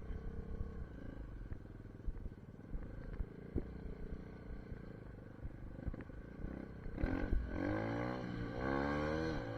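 SSR 150 pit bike's single-cylinder four-stroke engine idling unevenly, then revving up about seven seconds in as it gets louder, its pitch rising, falling back and rising again near the end.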